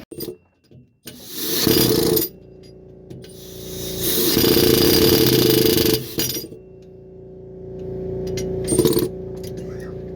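Power impact wrench run in three bursts, short, long, then a brief blip near the end, over a steady hum.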